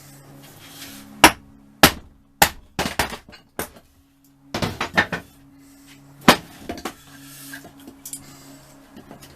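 Heavy hammer blows on a seized Yamaha FZR1000 engine, driving out the rusted-in barrels and piston: sharp single strikes about every half second, then a couple of quick flurries, with faint music underneath.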